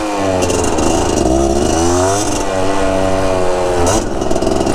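Two-stroke dirt bike engine under throttle, its revs climbing and falling several times, then holding steadier near the end.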